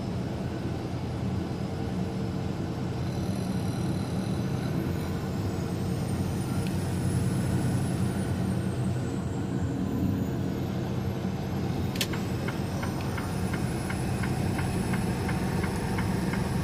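Truck cab at highway speed: steady engine drone and road noise. About twelve seconds in there is a sharp click, then light clicking about twice a second.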